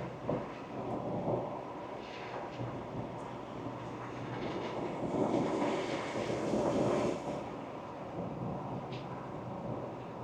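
2024 Ford Ranger Wildtrak being driven: steady engine and tyre-on-road rumble, swelling louder about five seconds in and easing back down after about two and a half seconds.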